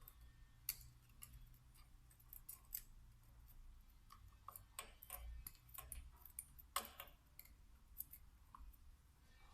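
Faint, scattered clicks and light metal taps of small parts and tools being handled while a VE diesel injection pump is taken apart, over a low hum.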